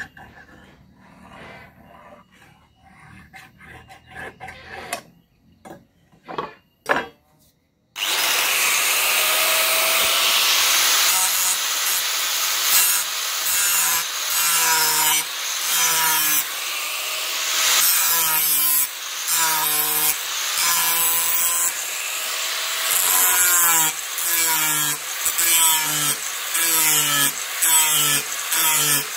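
A few light taps and clicks, then, about eight seconds in, a loud rasping sound of the steel of a chainsaw bar being cut or ground starts. It goes on in repeated strokes, each with a short falling tone, about one a second.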